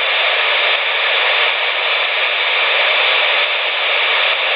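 CB radio speaker giving a steady hiss of static on the 27 MHz band, with no voice coming through.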